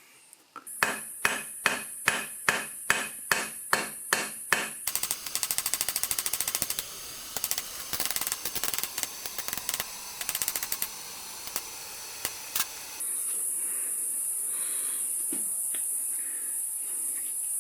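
Hand hammer striking iron on an anvil: steady blows about three a second, then a run of quicker, lighter strikes. The hammering stops a few seconds before the end, leaving the steady high chirring of crickets.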